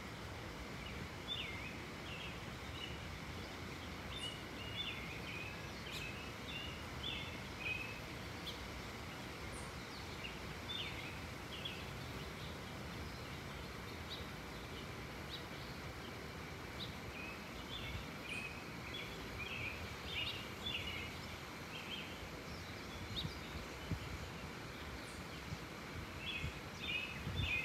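Small birds chirping, short high calls coming in quick clusters again and again, over a steady low background noise.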